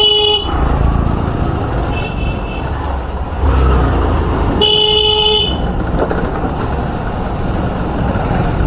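Vehicle horn honking over steady motorcycle engine and road rumble while riding. A blast cuts off just after the start, a faint one sounds about two seconds in, and a loud half-second blast comes about five seconds in.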